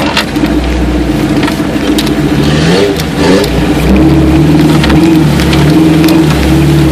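An engine running with a steady low hum. Its pitch wavers briefly about three seconds in, and it runs a little louder from about four seconds on.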